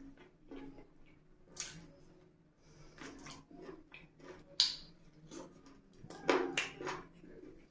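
A person chewing a mouthful of saucy fried chicken with wet, sticky mouth sounds and irregular lip smacks. There is one sharp smack about halfway through and a quick run of louder ones near the end.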